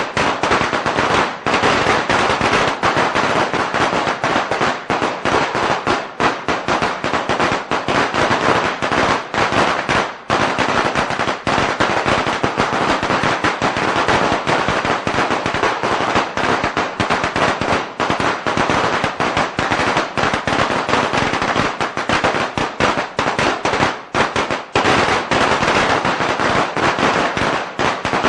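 A long string of firecrackers going off, a dense, rapid crackle of bangs without a break.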